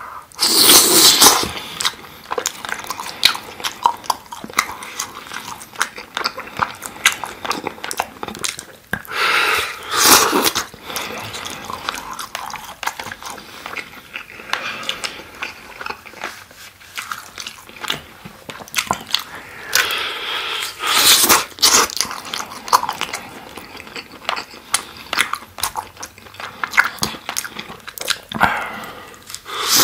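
Close-miked biting and chewing of sauce-glazed grilled chicken skewers, many small mouth clicks throughout, with louder bites pulled off the skewer about a second in, around ten and twenty seconds in, and near the end.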